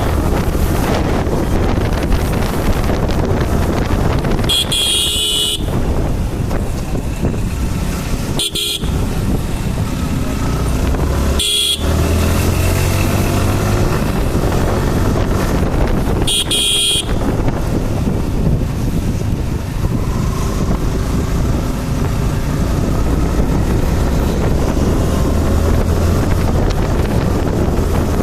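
Motorcycle on the move: steady wind rush on the microphone over the running engine, with short horn toots right at the start, about five seconds in and about seventeen seconds in.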